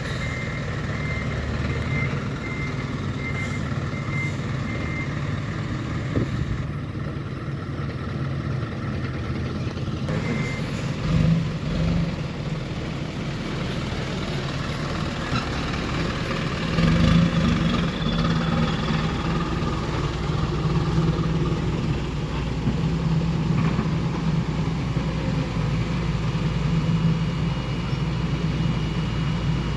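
Diesel dump truck engine running, with a reversing beeper sounding a short high beep about twice a second for the first five seconds. The engine grows louder about 17 seconds in.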